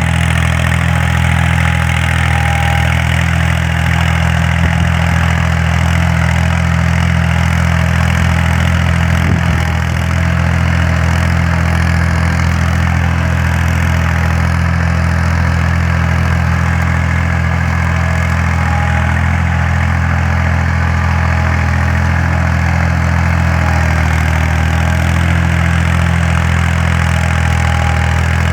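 Force tractor's diesel engine running steadily while pulling a plough, a constant low drone that hardly changes.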